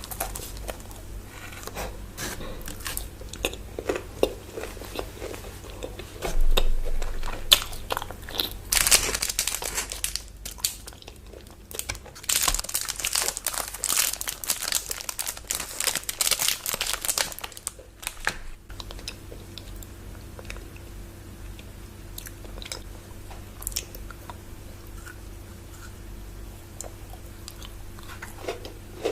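Close-miked chewing and biting of chocolate bars with wafer and nut centres, with many sharp crunches. Louder, crisper stretches of crunching come about nine seconds in and again from about twelve to seventeen seconds.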